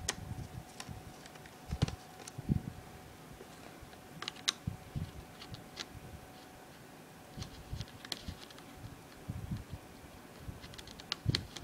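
Irregular small clicks, taps and light knocks of plastic laptop parts and tools being handled and set down during a teardown.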